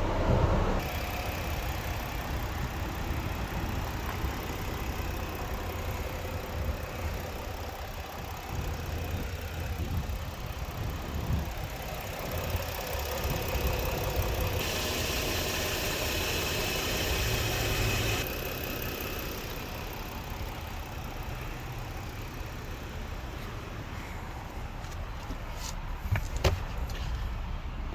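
A 2016 Ford Explorer's engine running at idle, a steady low rumble. A stretch of hiss lasts a few seconds midway, and a sharp click comes near the end.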